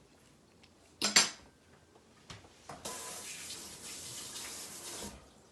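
A utensil clatters sharply against a dish about a second in, then a stream of water runs steadily for a little over two seconds and stops.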